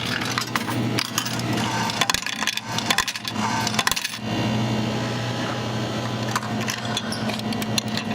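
Coins clicking and clinking as they drop into a vending machine, densest over the first four seconds, over a steady low hum.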